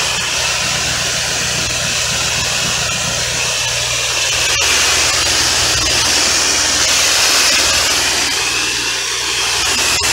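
Pressure washer rinsing house siding at low pressure: a steady hiss of water spray over the low, even hum of the machine's engine.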